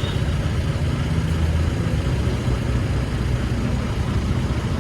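Motorcycle running on the road, a steady low rumble of engine and road noise.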